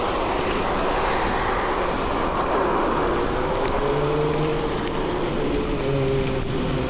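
Steady rush of wind over the microphone on a fast bicycle descent. About three seconds in, a low wavering hum, like a passing vehicle's engine, joins it.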